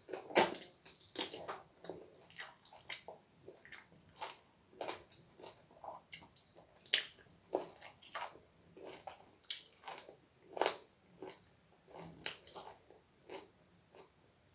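Close-up mouth sounds of eating starch with slimy okra soup: wet smacks and chewing, about two short clicks a second at an uneven pace.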